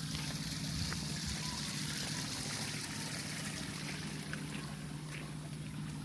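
Running water, a stream or trickle, flowing steadily, with a steady low hum underneath.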